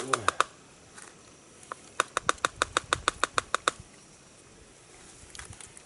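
A bird's harsh chattering call: two rapid runs of sharp clicking notes at about seven a second, a short one at the start and a longer one about two seconds in.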